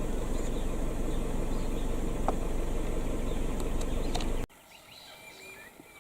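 Loud steady rumbling noise that cuts off abruptly about four and a half seconds in. After it come faint, scattered bird calls: short whistles and a falling note.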